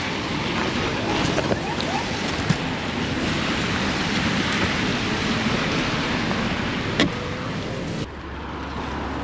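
Steady rushing of wind and wet-road tyre noise while riding an e-bike in the rain, with a single click about seven seconds in. Near the end the rush drops away, leaving a low hum.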